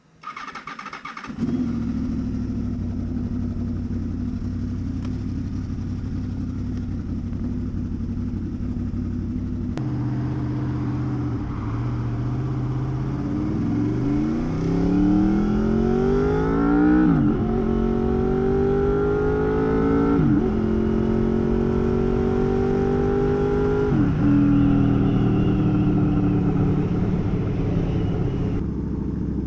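Honda VFR800 VTEC V4 engine with a custom exhaust, started and catching about a second and a half in, then idling steadily. Later it pulls up in pitch three times, each rise ending in a sudden drop like a gear change, then settles to a steady note.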